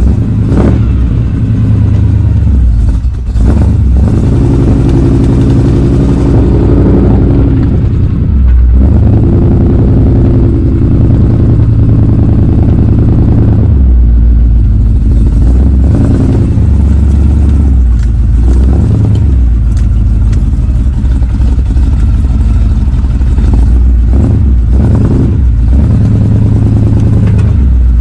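Big-block V8 of a 1984 Chevy K5 Blazer running while it warms up after a cold start, its note changing a few times as the revs shift. A few sharp knocks sound near the start and again late on.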